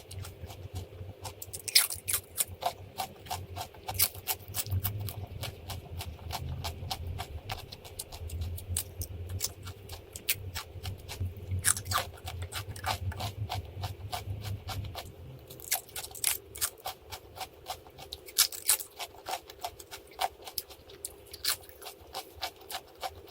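Crisp crunching and chewing of food, many sharp crunches in quick, uneven succession. A low hum sits underneath and stops about fifteen seconds in.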